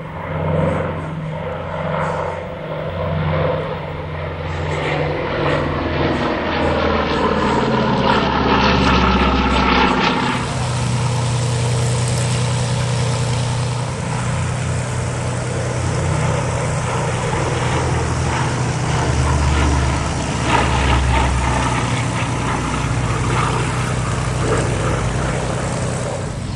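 Lockheed Hudson's twin radial piston engines and propellers on a flypast, pitch falling as the aircraft passes. About ten seconds in the sound changes abruptly to a steady engine drone.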